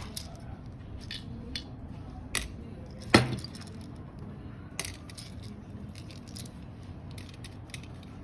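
Scattered clicks and knocks of a plastic shower head and its switch parts being handled and worked, the loudest a sharp knock about three seconds in with a brief ring.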